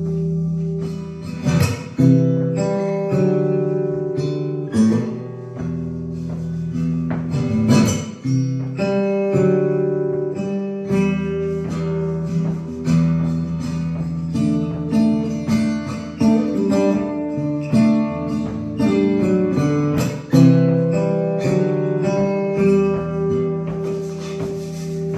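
Solo acoustic guitar playing an instrumental piece: a picked melody over sustained bass notes, with a few sharp strummed accents.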